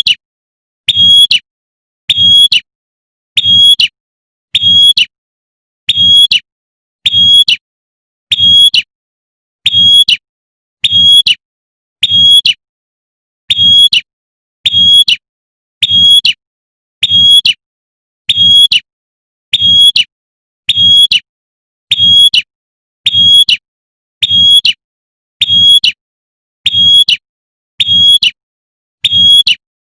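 Female prinia (prenjak) giving its sharp, repeated 'tembakan' call to draw a male: short high notes about once a second in a steady series, each with a faint low hum beneath it.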